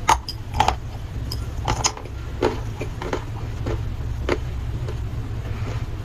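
Dry clay being chewed: a dozen or so irregular, sharp crunching snaps, over a steady low hum.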